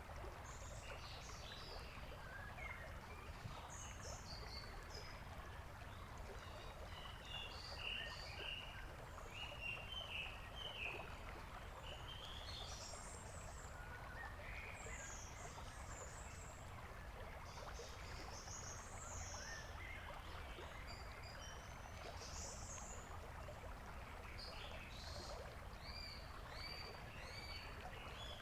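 Small birds chirping and whistling in quick, scattered calls over a steady background hiss.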